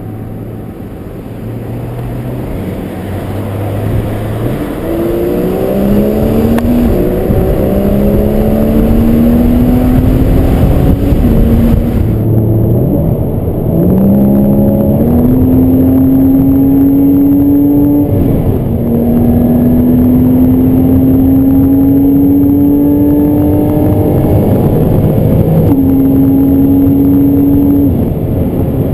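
Porsche Boxster S 981's 3.4-litre flat-six with sport exhaust accelerating through the gears: after a few seconds of steady running the engine note climbs, drops back at each upshift and climbs again, several times.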